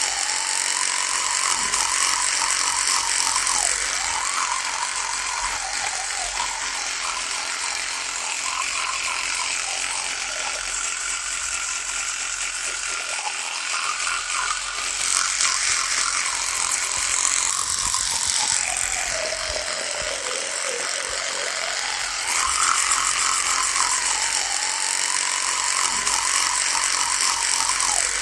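Electric toothbrush buzzing continuously. Its pitch drops and comes back up several times, most deeply about twenty seconds in.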